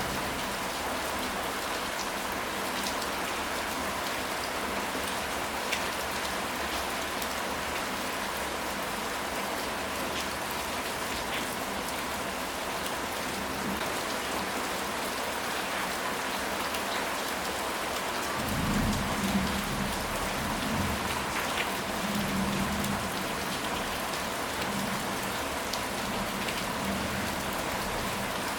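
Steady rain falling on a surface, with individual drops ticking. About two-thirds of the way through, a low rumble of thunder swells for a few seconds.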